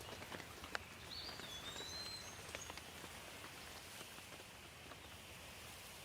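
Light rain falling, with scattered single drops hitting close by. A bird gives a few high whistled calls that glide in pitch, starting about a second in.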